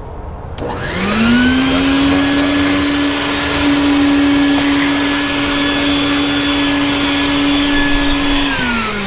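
A small electric motor spins up about a second in, runs steadily with a whine over a rushing hiss, then winds down near the end.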